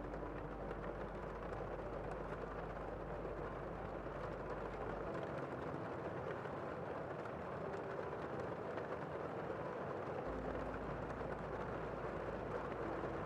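Steady rain heard from inside a room, a dense, even, muffled hiss with a few faint ticks of drops.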